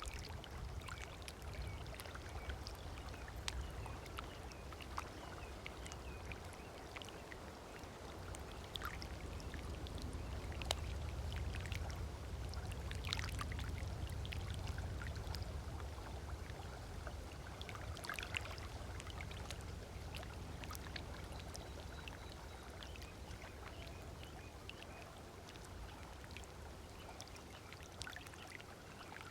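Small waves lapping and splashing on a sandy lake shore, with short bird calls now and then. A low rumble underneath swells around the middle and fades again.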